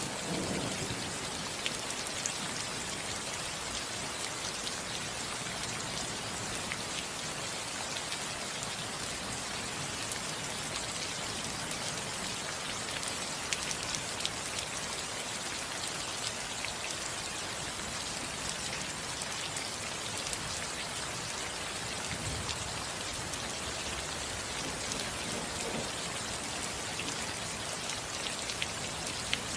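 Steady rain falling on a house roof, a constant hiss with many individual drops ticking.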